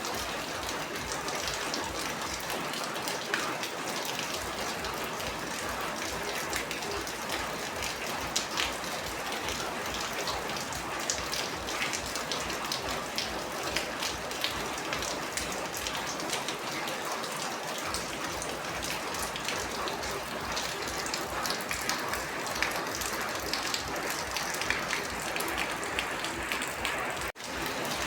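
Steady rain: a dense hiss with many individual drops ticking on a surface, cutting out for an instant about a second before the end.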